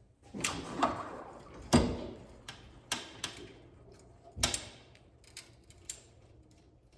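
Irregular knocks and clinks of hand tools and parts being handled while fitting leaf spring sliders and their bearing bolts, with the loudest knocks about two seconds and four and a half seconds in.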